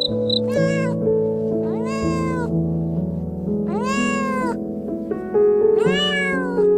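A cat meowing four times, each meow rising then falling in pitch, over soft background music with held notes.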